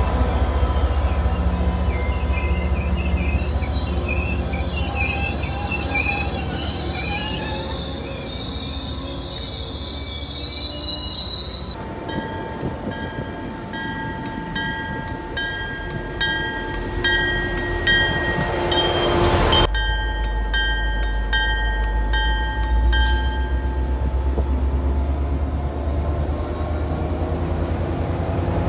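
MBTA commuter rail bilevel coaches rolling past with a low rumble and wavering, high wheel squeal. Then a diesel locomotive approaches with its bell ringing steadily, about two strikes a second, and its engine rumbling heavier in the last part.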